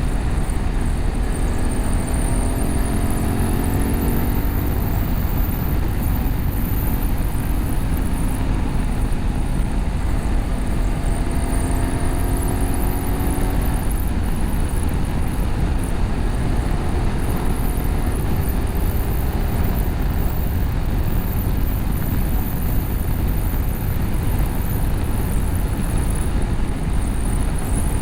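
BMW F850GS parallel-twin engine with an Akrapovic slip-on exhaust and catalytic-converter bypass, running at road speed under heavy wind rumble on the microphone. The engine note climbs twice as the bike accelerates, near the start and again about halfway through.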